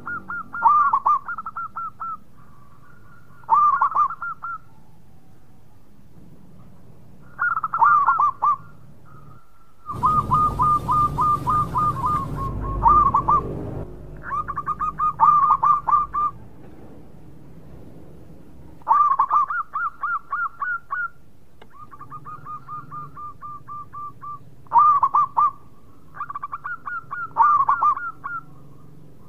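Zebra dove (perkutut) cooing: repeated phrases of quick staccato coos, one every few seconds. A stretch of hiss and low rumble lies under the song about ten seconds in.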